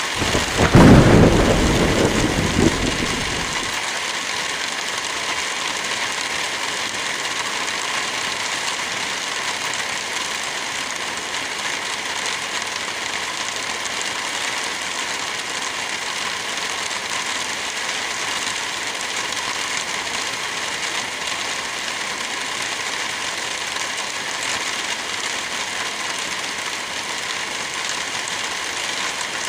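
Steady hiss of light rain and wind through forest trees. About half a second in, a loud low rumble lasts roughly three seconds and then cuts off suddenly.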